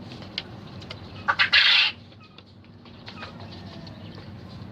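A bird flapping its wings briefly in a cage: two quick sharp flutters, then a loud burst of wingbeats lasting about half a second, over a steady low hum.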